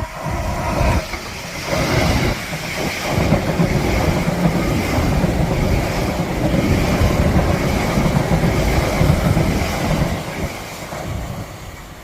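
A train running along the line through the station, loud and steady, with a few knocks of the wheels in the first three seconds, fading near the end.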